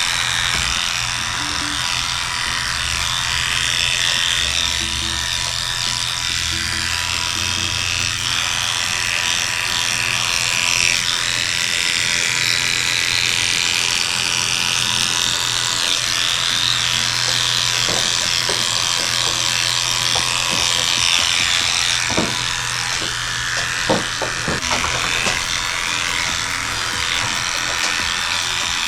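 Electric dog grooming clippers fitted with a 4.5 blade, running steadily as they shave the coat, with a few sharp clicks in the second half.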